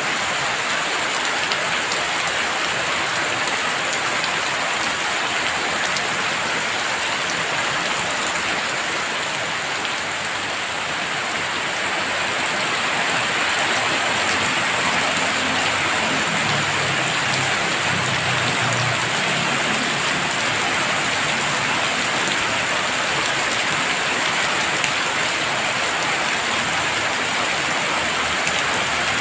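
Heavy rain falling steadily, a dense even hiss of drops on surfaces, with a faint low rumble in the middle.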